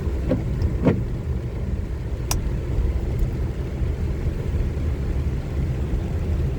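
Steady low rumble of a car being driven, heard from inside the car, with a couple of short knocks in the first second and one sharp click a little over two seconds in.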